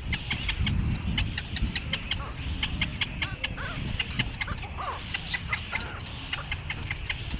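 Many birds chirping together in quick, overlapping short notes, with a few lower gliding calls, over a steady low rumble.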